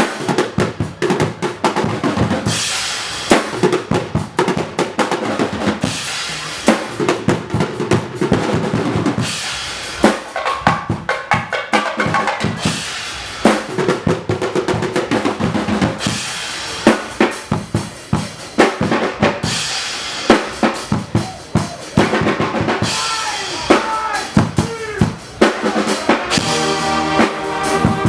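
Guggenmusik carnival band playing, with a heavy, steady beat on bass drum and snare drums under loud brass in several stretches.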